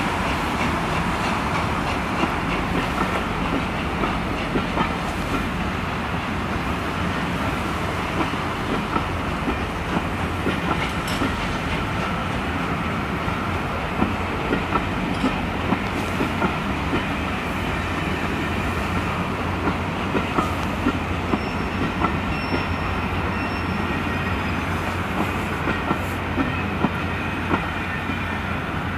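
A long rake of passenger coaches behind a steam locomotive rolling past, wheels clicking steadily over the track.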